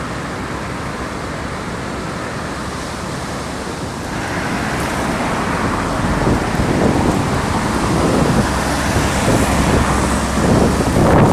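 Storm wind gusting over the microphone with road traffic noise, getting louder about four seconds in.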